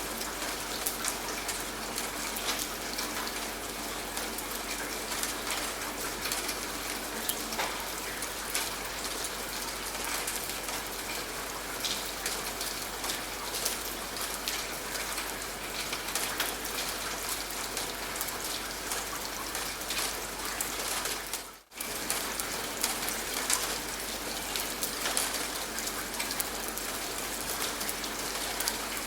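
Steady rain with many separate drops ticking on a surface, at an even level. It cuts out for an instant about two-thirds of the way through.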